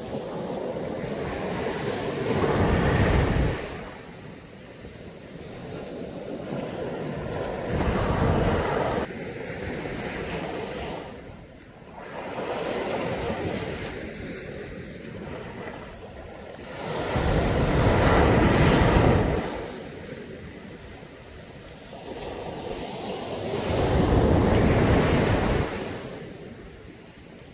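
Caribbean sea waves breaking on a beach, each one surging up and washing back, with about five swells, the loudest in the second half.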